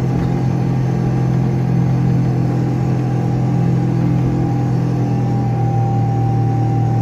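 Subaru L series wagon's stock EA82 flat-four engine running hard at steady revs under load, climbing a soft sand dune, heard from inside the cabin.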